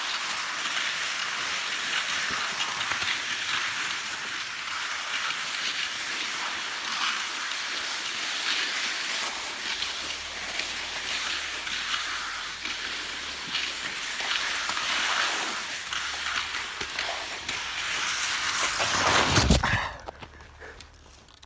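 Skis sliding over snow: a steady scraping hiss that swells into a louder scrape near the end, then stops suddenly.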